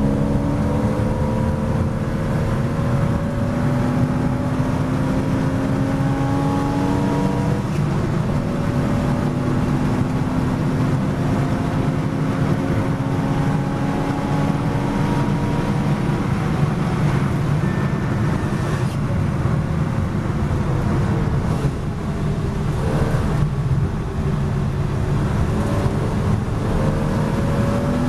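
Porsche Boxster S race car's flat-six engine heard from inside the cockpit, pulling up through the gears, its pitch rising and breaking off briefly at each upshift. About two-thirds through it falls away as the car brakes hard from over 110 mph and downshifts, then picks up again near the end.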